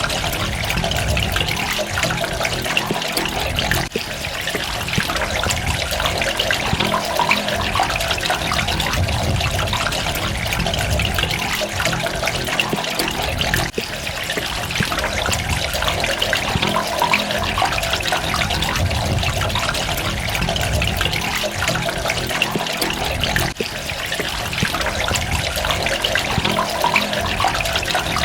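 Water running and splashing steadily, with fine droplet detail, dipping briefly in level about every ten seconds.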